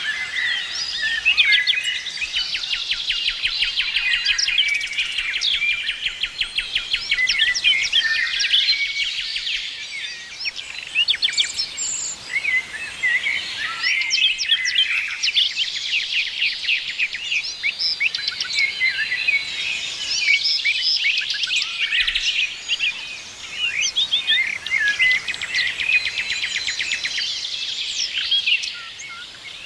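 A chorus of several songbirds singing and chirping together, with rapid trills and quick runs of repeated notes overlapping throughout.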